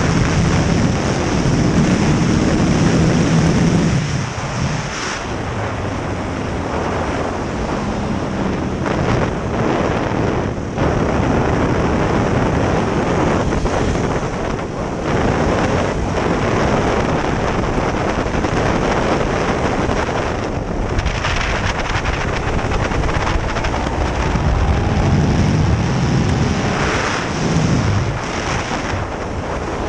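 KTM 1290 Super Duke R's V-twin engine running hard on track, its pitch rising and falling with throttle and gear changes, with heavy wind noise on the microphone.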